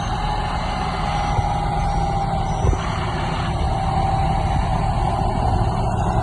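Heavy earthmoving machinery's diesel engine running steadily, a continuous low drone with a faint steady whine over it and a single light knock about three seconds in.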